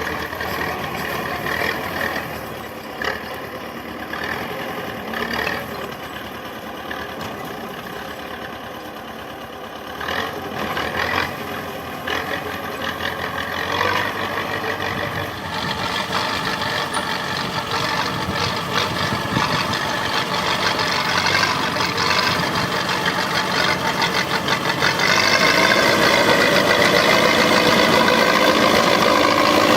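T-74 crawler tractor's diesel engine running under load while plowing. It grows louder about halfway through and is loudest near the end.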